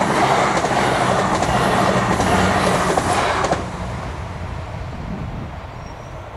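Irish Rail 22000 class diesel multiple unit passing at speed over a level crossing: a loud rush of wheel and engine noise with a steady low drone and wheels clicking over the track. The loud part drops off sharply about three and a half seconds in, leaving a lower rumble as the train moves away.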